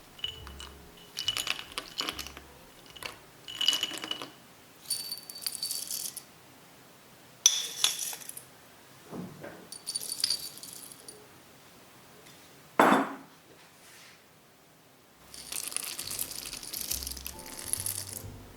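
Kitchen utensils clinking against glass or ceramic dishes: a string of bright, ringing clinks and taps, with one louder knock about two-thirds of the way through. Soft background music plays underneath.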